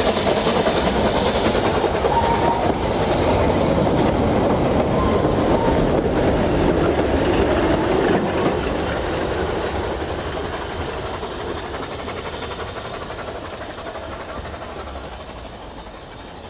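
Steam-hauled train passing, its wheels clattering over the rail joints, the sound fading steadily in the second half as the train moves away.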